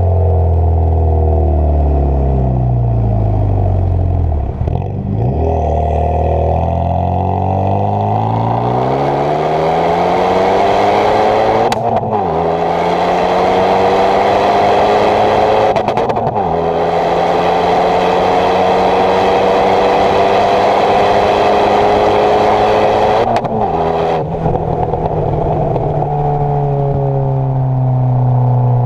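Renault Megane 225's turbocharged 2.0 four-cylinder engine through a decat stainless exhaust with the backbox deleted. The revs fall away for the first few seconds, then the car pulls hard up through the gears with three upshifts, each gear climbing more slowly than the last, and the revs ease off again near the end.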